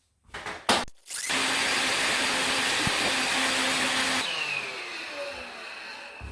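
A vacuum cleaner switches on about a second in and runs steadily for about three seconds. It is then switched off, and its motor winds down with a falling whine. A few knocks come before it starts.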